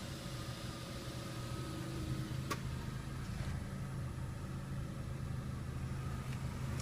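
Chevrolet Sonic's turbocharged four-cylinder engine idling with a steady low hum, and a single sharp click about two and a half seconds in.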